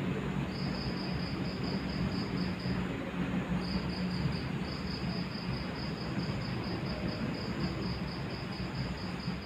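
A cricket chirping in long, even trains of about four pulses a second, with a short break about three seconds in, over a steady low hum and hiss.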